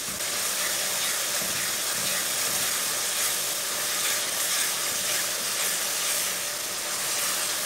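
Tomato-onion masala with ground spices sizzling steadily in oil in an aluminium karahi, stirred with a wooden spoon as the spices are fried (bhuna) on low heat.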